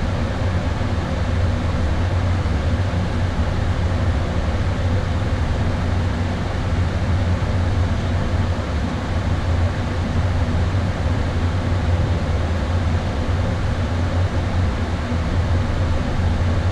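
Steady flight-deck noise of an Airbus A320 in descent: an even rush of airflow and air-conditioning with a low hum.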